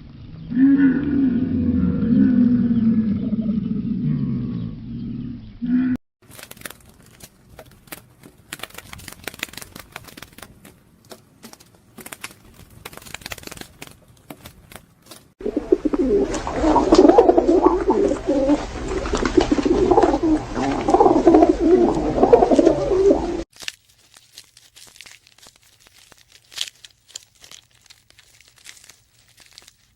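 A series of animal-sound clips. For about the first six seconds a low, drawn-out mooing call continues. Scattered clicks and rustling follow, then about eight seconds of dense bird cooing, then faint clicks.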